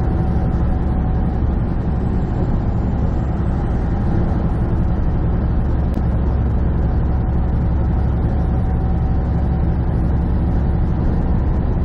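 Inside the cab of a semi truck cruising on the highway: the diesel engine drones steadily under road and tyre noise.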